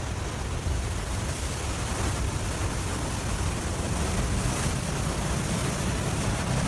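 Steady rushing noise of a river breaking up in winter, its surging water pushing broken ice downstream.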